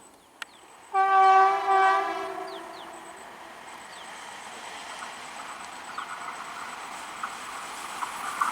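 Electric locomotive's horn sounding one blast of about a second, then the approaching train's running noise, a rushing rumble with clatter, building steadily louder.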